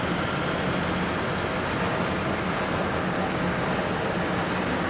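Steady, unbroken jet aircraft noise from a Boeing 787-8: a constant low rumble of engines and airflow with hiss above it.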